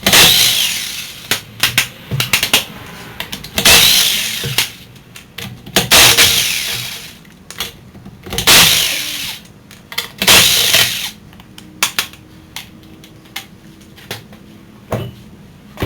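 Impact wrench zipping lug nuts off a car wheel in five bursts of about a second each, over the first eleven seconds, with short clicks and clinks between them and a few scattered clicks afterwards.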